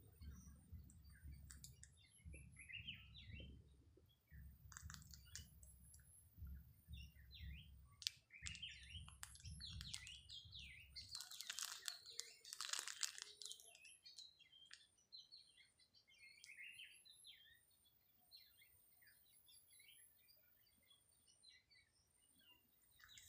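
Small birds chirping here and there, short high calls scattered throughout. A low rumble, like wind on the microphone or handling, sits under the first half and stops about halfway through.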